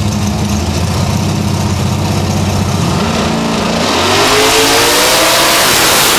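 Drag-racing Fox-body Ford Mustang's engine held at a steady high rev on the starting line, then launching about four seconds in, its pitch climbing as it accelerates hard down the strip and passes close by, much louder.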